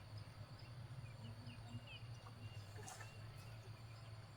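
Faint, short bird chirps, a few scattered sliding peeps, over a steady low hum.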